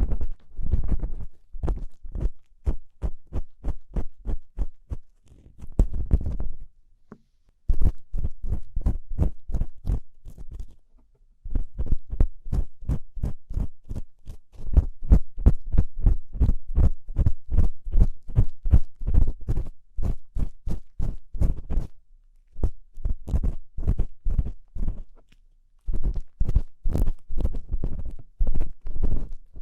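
Ear-cleaning tool scratching and scraping inside a binaural microphone's ear, a rapid run of short strokes about three or four a second with a few brief pauses, mimicking the crunch of dry earwax being scraped off.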